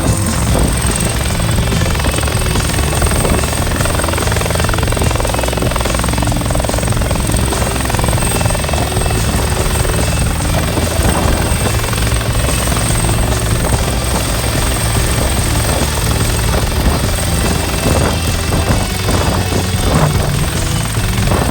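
Bell 412EP helicopter's rotor and twin turbine engines running steadily: a dense, even low rumble with a thin high whine held throughout.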